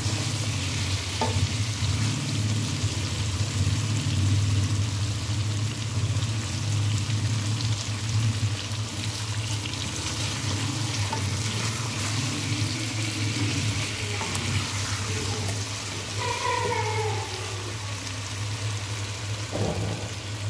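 Chicken pieces and tomato masala sizzling in hot oil in a steel karahi while a spatula stirs and scrapes them through the frying (bhunai), at the stage where the oil has separated from the masala. A steady low hum runs underneath.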